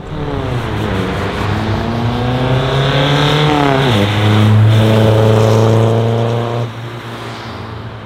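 A car engine accelerating hard as the car pulls away. The engine note rises, drops sharply with a gear change about four seconds in, then holds high and loud before the driver lifts off near the end.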